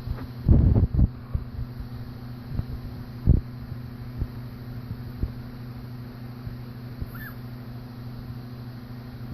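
A dog coughing: a rapid run of coughs about half a second in, then one more cough about three seconds in, with a few fainter ones between.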